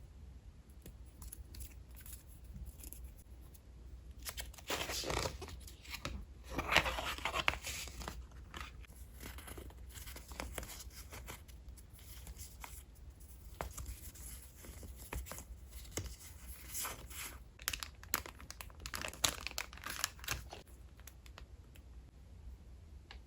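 Paper and packaging being handled: bursts of rustling, crinkling and tearing, with small clicks and taps between them.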